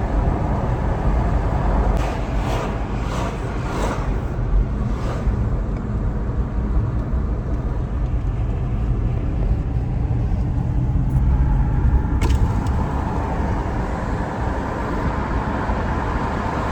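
Car on the move: a steady low rumble of engine and road noise, with a few short knocks a few seconds in and a single click about twelve seconds in.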